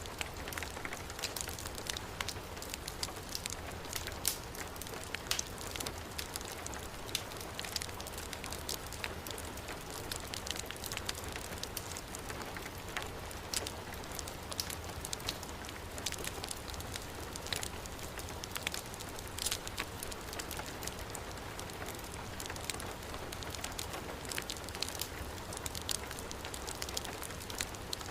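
Heavy rain falling steadily, with a wood fire crackling through it in frequent sharp pops and a low rumble beneath.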